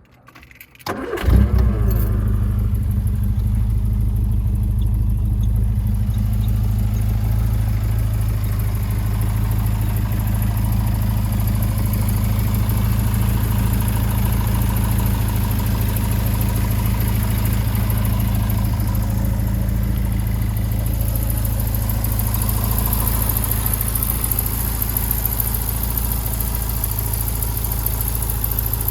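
1979 Morgan 4/4's Ford four-cylinder engine started: it cranks briefly about a second in, catches, then idles steadily.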